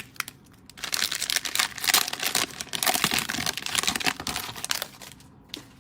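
Plastic cello trading-card pack wrapper crinkling as it is handled and torn open, in an irregular crackle that starts just under a second in and fades near the end.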